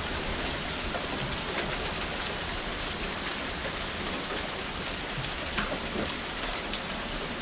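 Steady rain pattering on wet ground and surfaces after a hailstorm, with a few scattered sharper drips.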